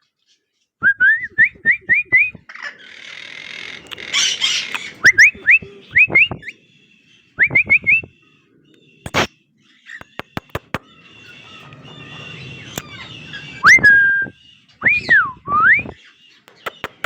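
Young male cockatiel whistling and chirping: runs of short, quick rising whistle notes, then a few longer swooping whistles near the end, with scattered sharp clicks.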